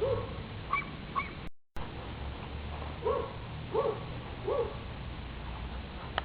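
Chihuahua barking: short, high-pitched barks, one at the start and two quicker yips about a second in, then three barks in a row about 0.7 s apart from about three seconds in. The sound cuts out briefly between the two groups.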